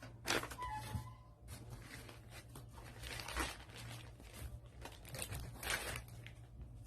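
Packaging being handled during a laptop unboxing: irregular rustling, crinkling and tearing of plastic and paper wrapping, with a steady low hum underneath.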